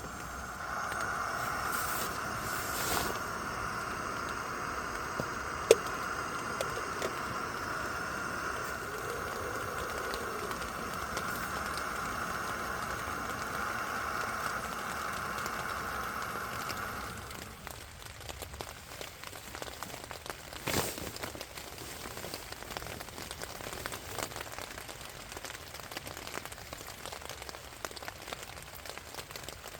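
Rain falling in a forest, with scattered drops ticking. A steady hum over it stops suddenly a bit over halfway through, leaving only the drips.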